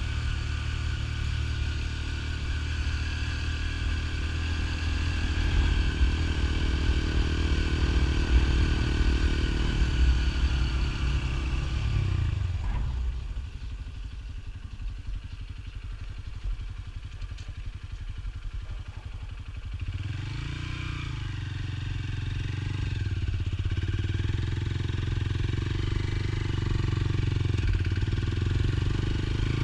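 Motorcycle engine running under way, then easing off about twelve seconds in to a low idle for several seconds. Near the middle it pulls away again with a rising engine note and settles into a steady run.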